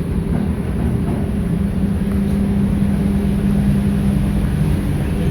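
Boat engine running steadily, a continuous low drone with a strong hum.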